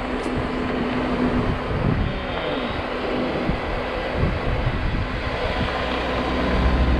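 Hurricane wind blowing hard: a steady rushing noise with a low rumble that swells near the end.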